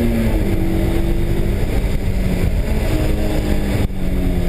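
Honda S2000's four-cylinder engine heard from inside the cabin, pulling under full throttle: its pitch drops at a gear change just as the sound begins, climbs steadily again, then briefly cuts near the end.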